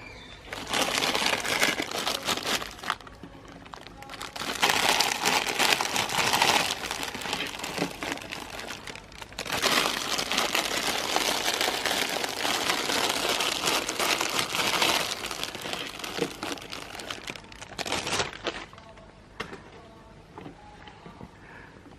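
Meat grinder crunching and crackling as an item is forced through it, in three long stretches of dense crackling separated by short pauses.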